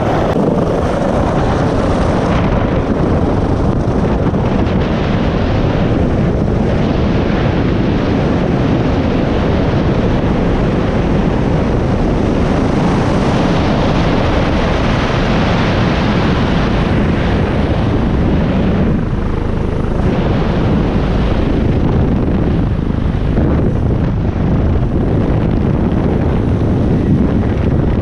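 Loud, steady helicopter engine and rotor noise.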